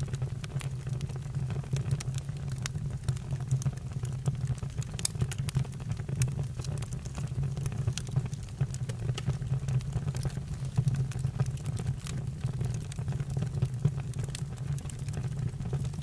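Campfire burning: a steady low rumble with scattered sharp crackles and pops.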